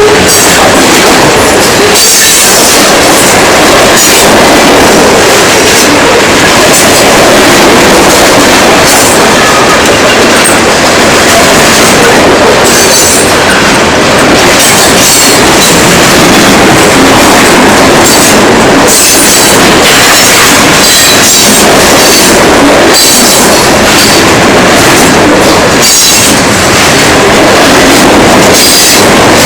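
Coil train's freight cars rolling past: a loud, steady rumble of steel wheels on rail, with clicks over the rail joints and a high wheel squeal now and then.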